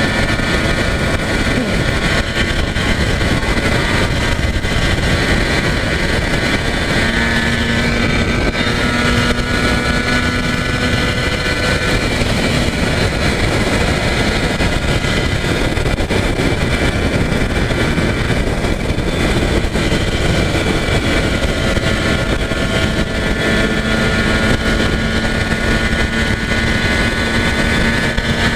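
Yamaha TZR250 (1KT) two-stroke parallel-twin engine running steadily at expressway cruising speed, its pitch holding level, under heavy wind rush on the microphone.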